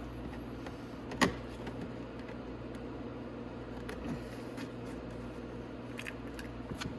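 A sharp click about a second in, then a few fainter clicks and knocks, as bolts are fitted by hand into an ATV's plastic footwell, over a steady electrical hum.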